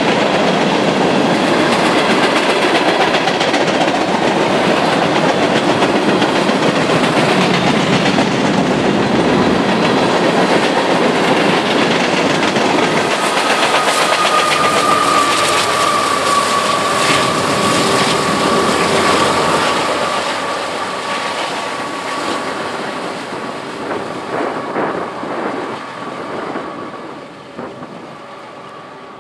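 Freight train passing close by: loaded tank cars rolling with a clickety-clack of wheels over the rail joints. About halfway through, a Union Pacific diesel locomotive goes by and a steady high whine joins in. The sound then fades as the train moves off into the distance.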